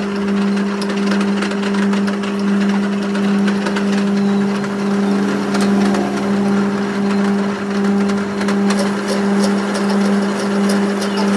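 A motor or engine running steadily with a constant low hum, its loudness pulsing gently about twice a second, with light clicks over it.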